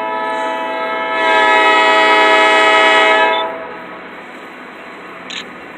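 Diesel locomotive air horn sounding one long blast of about three and a half seconds, getting louder about a second in, as a warning for the grade crossing. A short sharp click near the end.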